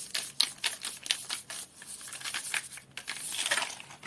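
Drawing on paper: quick irregular scratchy strokes with small clicks and taps, and a longer stretch of scribbling about three seconds in.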